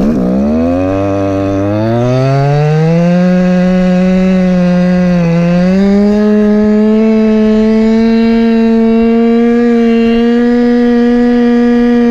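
Go-Ped scooter's Chung Yang CY26RC two-stroke engine revving up from a low note over the first few seconds, dipping briefly about five seconds in, then holding a steady high pitch at cruising throttle.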